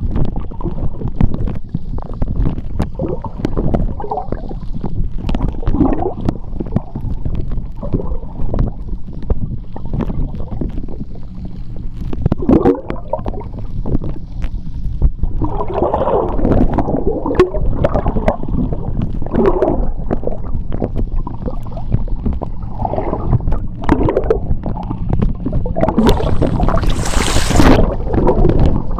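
Sea water heard from underwater: a low, continuous rumble with surging, gurgling swells and scattered sharp clicks, and a hissing rush of bubbles near the end.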